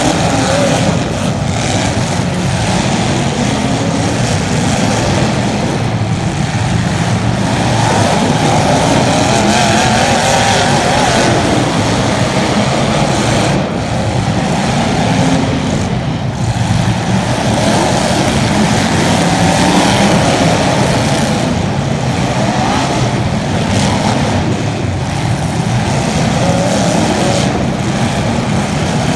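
Race-car engines running hard through a race, their pitch rising and falling over and over as they accelerate and back off.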